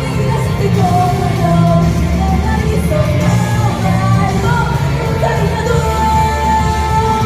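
Live pop song played loud over a sound system, with a heavy bass beat and singing on top; a long held sung note near the end.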